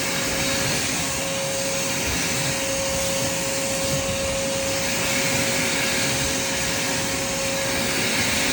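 Vacuum cleaner running steadily while vacuuming a thin doormat, a constant rushing of air with a steady whine.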